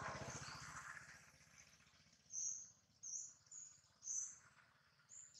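Birds chirping: about five short, high chirps spaced through the second half. Before them, a low, rapidly pulsing sound fades out over the first second and a half.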